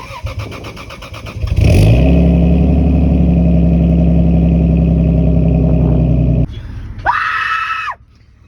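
A car engine runs with a quick pulsing, is revved and held at steady high revs for several seconds, then cuts off abruptly. A short high-pitched tone follows near the end.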